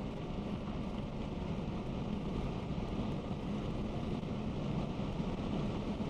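Honda Prelude's 2.2-litre H22A8 VTEC four-cylinder engine pulling hard at high speed, a steady drone mixed with heavy wind and road noise. The sound is muffled because the camera's microphone was partly covered.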